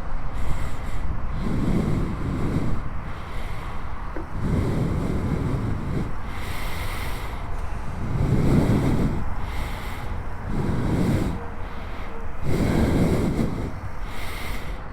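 A person's breathing close to the microphone, a slow rise and fall about every two to three seconds, over a steady background hiss.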